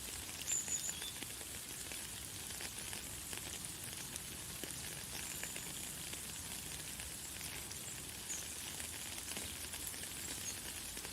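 Light, fine rain falling as a steady hiss with fine pattering ticks. A few brief high bird chirps are heard, the loudest about half a second in, with another longer thin note about five seconds in.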